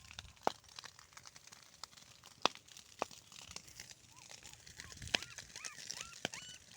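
Crinkling and crackling with a few sharp clicks, as of burnt debris being handled. From about four seconds in comes a quick series of short, high, rising-and-falling cries, a few each second.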